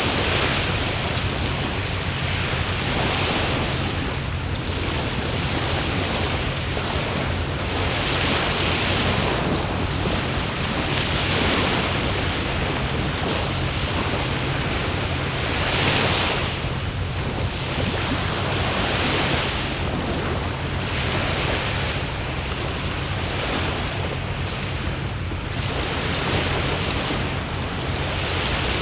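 Wood bonfire burning with a steady rushing sound that swells and eases every few seconds, and occasional faint crackles. A constant high thin whine sits above it.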